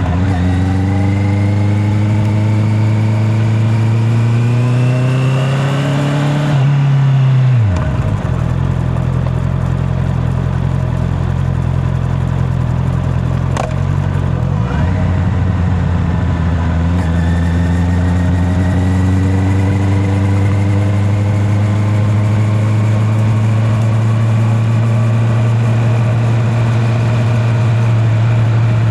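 Honda CB650R inline-four motorcycle engine under way: it pulls up through the revs for about six seconds, then the pitch drops sharply as the throttle is rolled off, and it settles into a steady cruise that slowly rises again toward the end. Heard through a microphone in the rider's back pocket.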